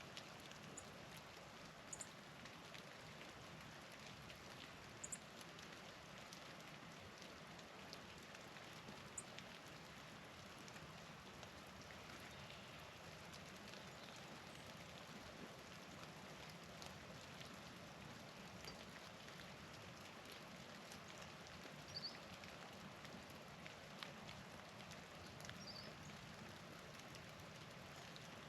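Faint, steady patter of wet snow falling, with scattered light ticks. A few short, high chip notes from small songbirds come through: three near the start and three more in the second half.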